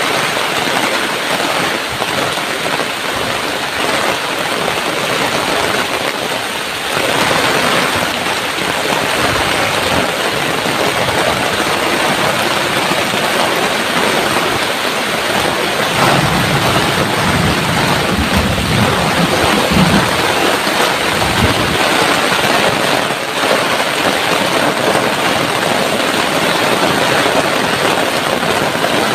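Heavy tropical downpour: a loud, steady hiss of rain. About halfway through, a low rumble swells for several seconds.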